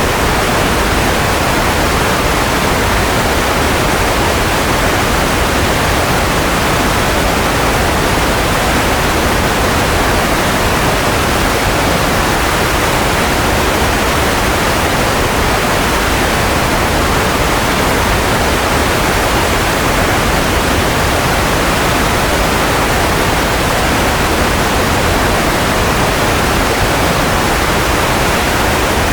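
Steady, unbroken white noise: an even shushing hiss with no tones or changes in level.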